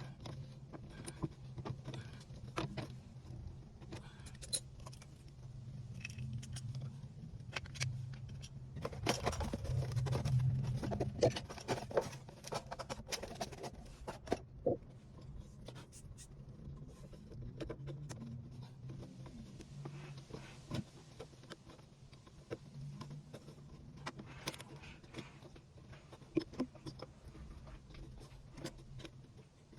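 Scattered clicks, knocks and light metallic rattles of hand tools and washing-machine parts being handled during a repair, busiest about a third of the way in, over a steady low hum.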